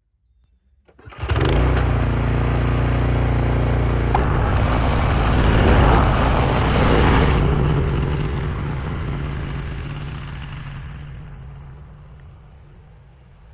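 Two-stage snowblower engine starting about a second in and running, with a stretch of louder noise in the middle, then fading gradually over the last few seconds.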